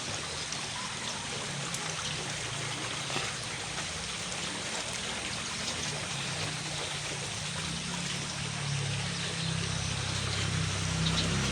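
Steady hiss of falling rain and running water, with a low engine hum growing louder over the last few seconds.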